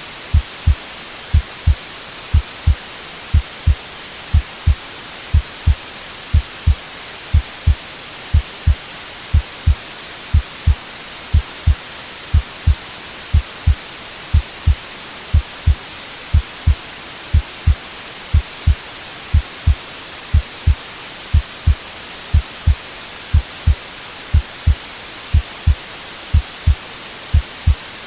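Heartbeat sound, a double lub-dub thump about once a second, steady and even, over a constant white-noise hiss.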